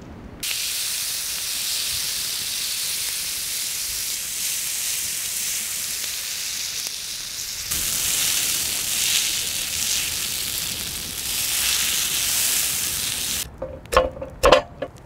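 Meat sizzling loudly in a hot pan, a steady hiss that starts suddenly about half a second in and jumps to a new shot about eight seconds in. Near the end a cleaver chops into a raw chicken with a few sharp knocks.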